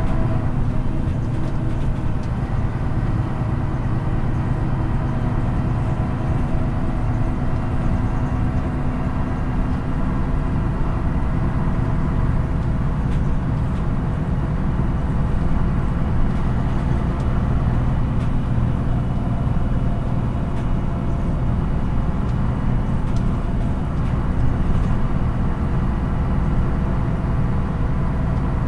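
MAN NÜ 313 bus's diesel engine running under way, heard from inside the passenger cabin, with a steady hum of engine and road noise.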